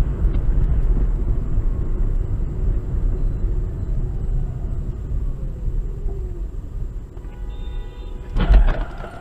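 Steady low rumble of a moving road vehicle. About seven seconds in, a brief pitched tone sounds, followed by a loud sudden thump near the end.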